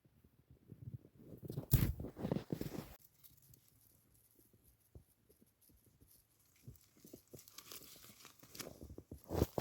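Crunching, tearing and rustling noises of something being handled. They come in a loud bout about two seconds in and another near the end, with faint scattered clicks in between.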